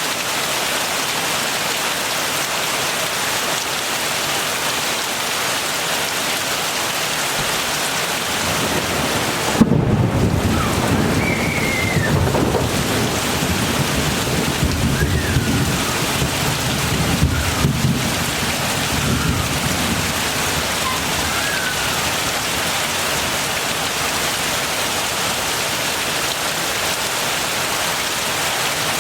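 Heavy rain falling steadily. About ten seconds in, thunder breaks with a sudden crack and rumbles on unevenly for about ten seconds before dying back under the rain.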